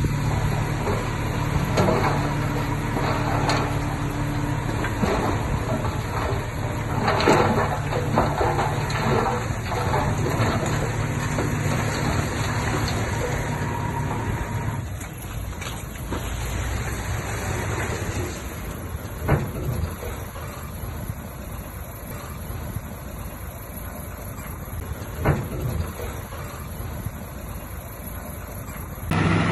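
Diesel engine of heavy earthmoving machinery running steadily, with scattered metallic clanks. About halfway through the engine drone drops back to a quieter, rougher sound with a couple of sharp knocks. Just before the end a loud engine sound comes back in abruptly.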